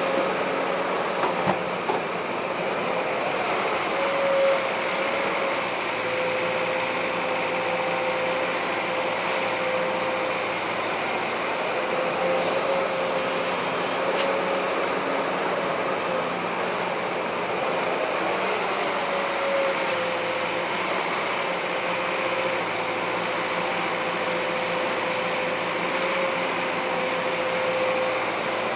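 Heavy diesel machinery, an excavator and a dump truck, running steadily with a constant mechanical whine that wavers slightly in pitch.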